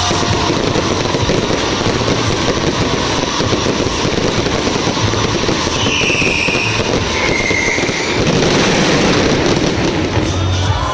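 Fireworks going off in a dense, continuous barrage of rapid crackles and bangs, with two brief higher tones partway through.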